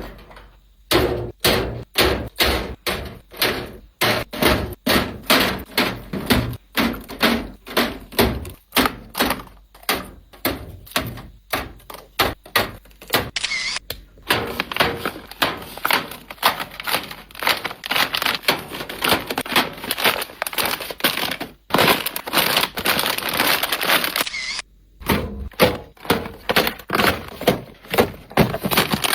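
Objects being handled and set down: a rapid run of hard knocks and clicks, two or three a second, with a stretch of denser rustling noise in the middle.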